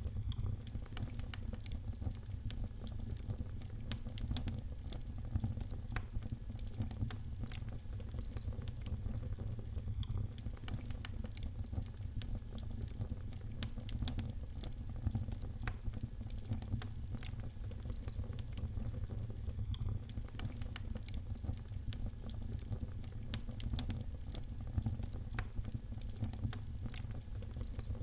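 Wood fire in a fireplace crackling: many small, irregular pops and snaps over a steady low rumble.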